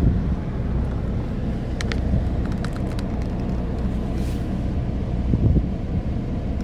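Steady low rumble of a car driving, engine and road noise with some wind, and a few light clicks about two to three seconds in.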